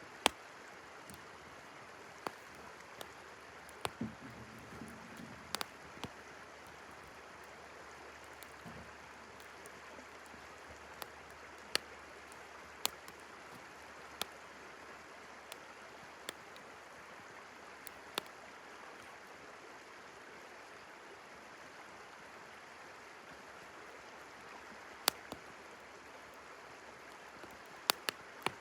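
Wood campfire crackling, with sharp pops at irregular intervals, over the steady rush of a flowing river.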